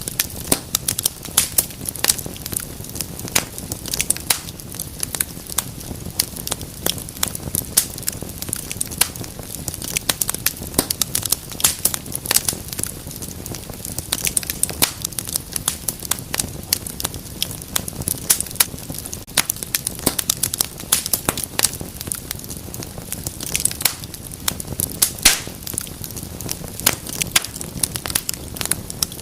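Wood fire burning in a fireplace, crackling and popping constantly with many small irregular snaps over a low steady rush of the flames.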